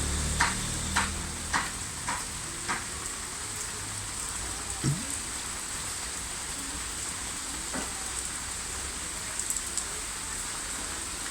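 Steady rain falling with a constant hiss. Several sharp drips or splashes come about every half second over the first three seconds, and a low rumble fades out early on.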